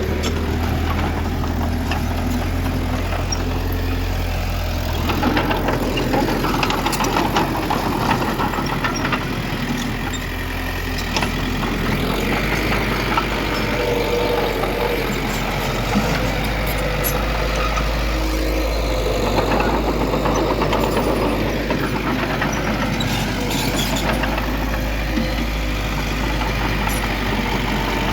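Diesel engines of heavy earthmoving machinery, a bulldozer and a dump truck, running continuously, with the engine note shifting under changing load a couple of times and a few faint clanks.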